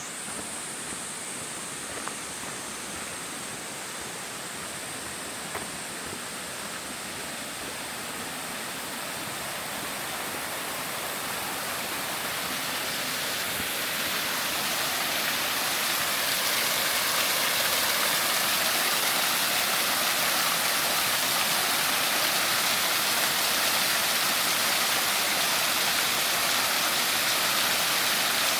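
Rushing water of a river and falls: a steady, even hiss that grows louder through the first half and then holds steady.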